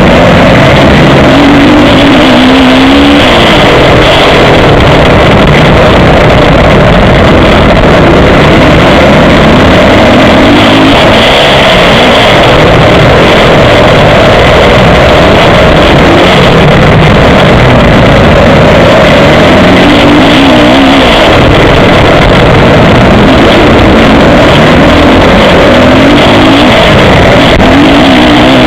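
Motocross bike engine running hard, its note rising and falling over and over as the rider revs and shifts. The sound is very loud and overloaded.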